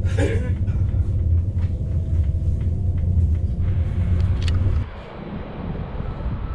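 Steady low rumble inside a moving Sprinter commuter train, with faint clicks over it. About five seconds in it cuts abruptly to a quieter, even outdoor noise.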